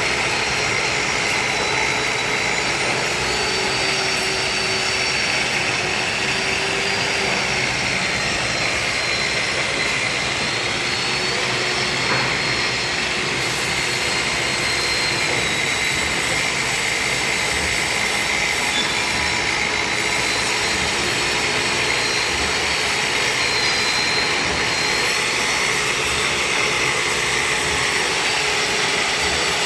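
Lathe bed grinding machine running steadily: a continuous hiss and whine, with a faint high tone that slowly wavers up and down in pitch.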